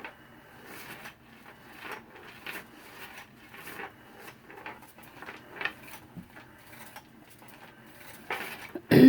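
A kitten playing with a toy: scattered light taps, knocks and rustles, with a louder sudden sound near the end.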